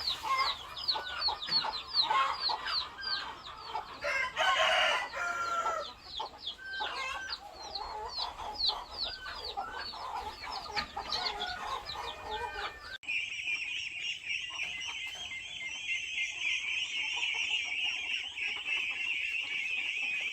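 A flock of chickens calling and clucking, with many short, quickly falling calls and a rooster crowing about four seconds in. About two-thirds of the way through the sound cuts suddenly to a steady high insect drone.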